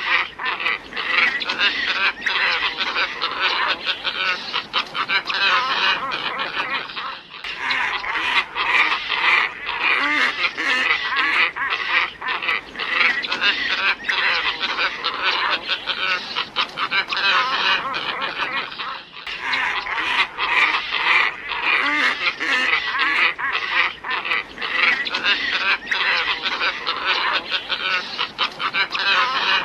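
A flock of glossy ibis calling: a dense, unbroken chorus of overlapping hoarse croaks and grunts. It is a recorded lure call that loops, with a brief break about every twelve seconds where it repeats.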